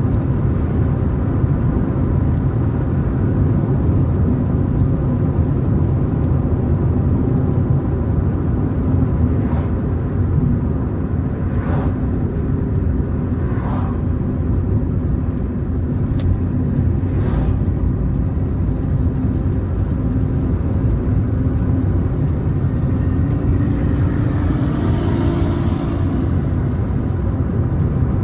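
Car driving along a road: a steady low rumble of engine and tyres, with a few brief knocks through the middle and a short swell of hissing noise near the end.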